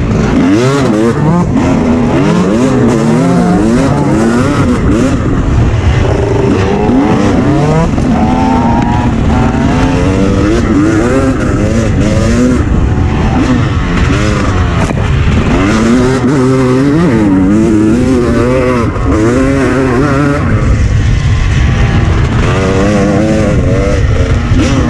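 Dirt bike engine revving hard under riding load, its pitch climbing and dropping again and again.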